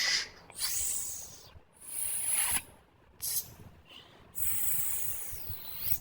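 A series of about five short hissing bursts of noise, the last and longest starting a little past the middle.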